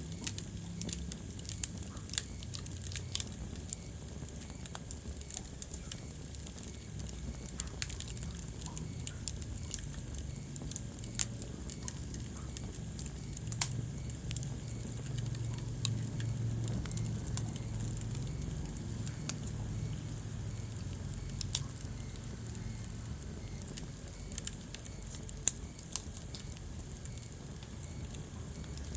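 Wood fire burning in a fireplace: a low steady rumble of flame with sharp crackles and pops scattered at irregular intervals.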